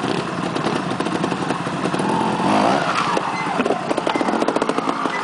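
Trials motorcycle engine running at low revs, with quick rises in revs partway through as the rider blips the throttle to climb over large rocks.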